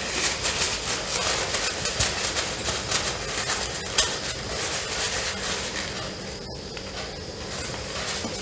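Close-miked chewing of a soft-bread ham sandwich: wet mouth smacks and clicks in quick succession, with one sharper click about four seconds in.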